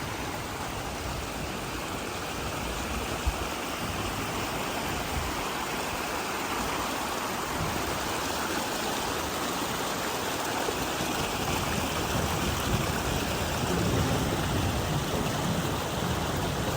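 Storm runoff water running steadily in a drainage ditch, growing slightly louder toward the end.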